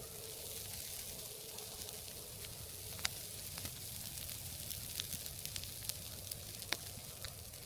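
Wood fire burning with a steady hiss and a handful of sharp crackling pops in the second half.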